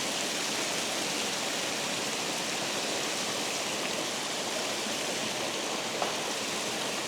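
Steady rushing of water pouring through a spillway, with one brief click about six seconds in.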